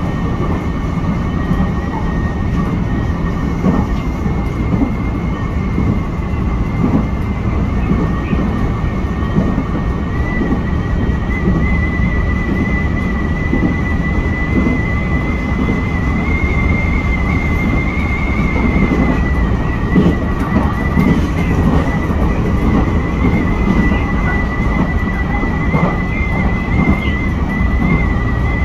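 Nankai Kōya Line express electric train running, heard from inside the front car: a steady rumble of wheels on rail with a thin high whine held throughout and faint scattered knocks.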